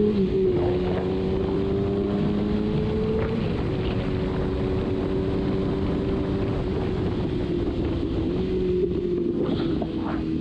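Kawasaki Ninja ZX-6R inline-four engine running at highway speed, its steady note creeping up and dipping twice with small throttle or gear changes, under wind rushing over the microphone.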